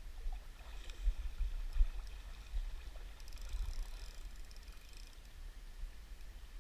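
River ambience: a low, uneven rumble with a faint rush of flowing water.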